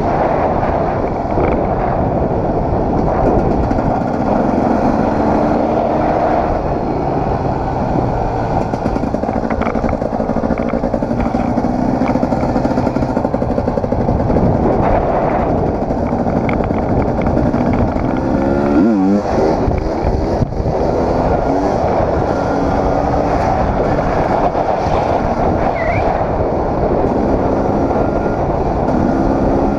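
Dirt bike engine running under way, its pitch rising and falling with throttle and gear changes, with a quick rev about two-thirds of the way through. Heavy wind noise on the microphone.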